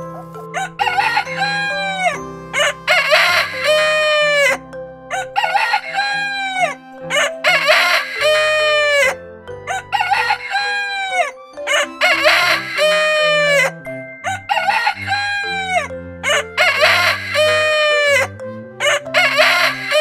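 Rooster crowing over and over, about ten crows each about a second long, over background music with low held notes.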